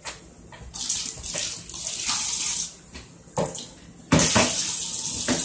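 Water running from a tap into a sink, turned on and off a few times and then running steadily for the last second or so, as a cup is rinsed out and filled.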